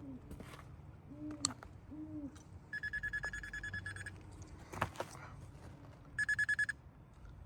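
Animal calls, likely birds: three short low hoots in the first two seconds, then two bursts of a rapid, high-pitched pulsed trill, one around the middle and one near the end.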